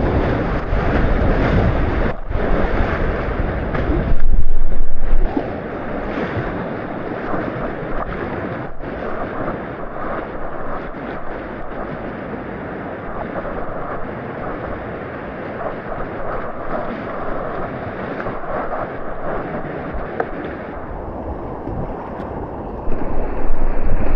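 Rushing whitewater of class III river rapids, a steady roar of water with wind noise on the microphone. A loud surge of noise about four seconds in lasts about a second, and another starts near the end.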